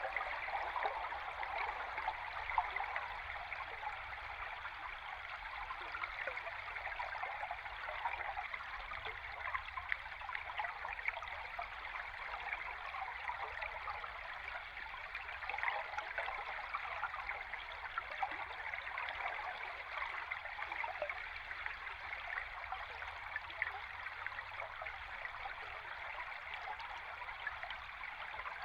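Stream water heard underwater: a steady rushing, bubbling flow, mostly in the middle and upper range, thick with small crackles and ticks.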